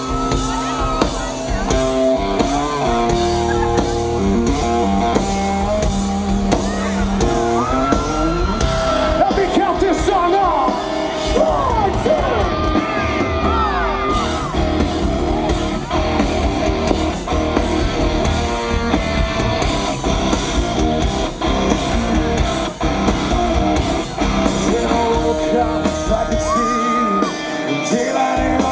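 Live rock band playing, with electric guitar and singing.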